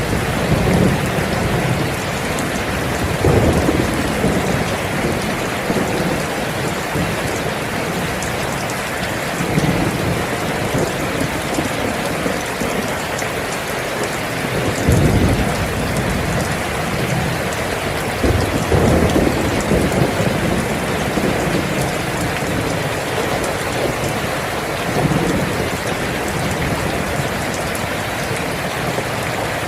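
Steady heavy rain falling, with low rolls of thunder rumbling about five times, the loudest about halfway through.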